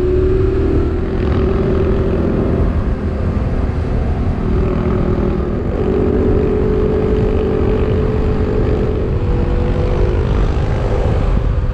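Motorcycle engine running at a steady cruising speed under heavy wind rumble on the microphone, its note shifting slightly about six seconds in.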